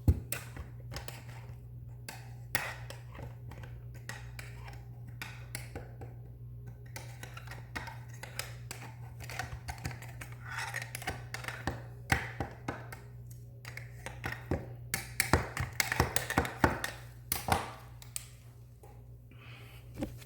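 Irregular clicks, taps and light knocks of tools and drain parts being handled while a sink drain is worked on, over a steady low hum. The knocking gets busier about fifteen seconds in.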